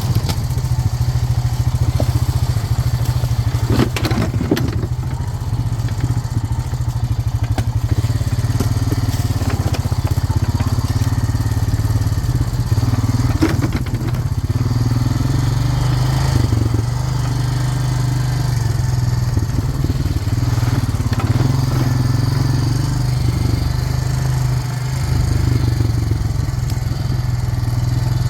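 Four-wheeler (ATV) engine running while it is ridden down a dirt path, its pitch rising and falling with the throttle. A few knocks and crackles come from the machine going over rough ground.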